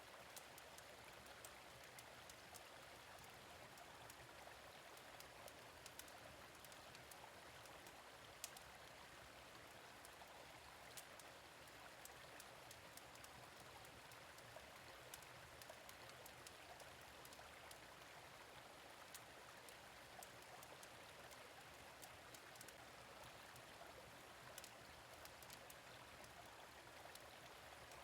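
Gentle stream flowing with a steady, faint rush of water, while a fire-pit fire crackles with scattered small sharp pops throughout.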